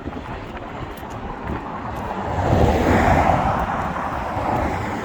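Wind buffeting the microphone over a steady low rumble of moving traffic or train, swelling as a vehicle passes about three seconds in.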